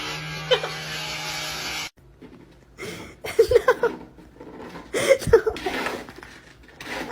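A loud, steady noise with a low hum that cuts off abruptly about two seconds in, then a person laughing in several bursts.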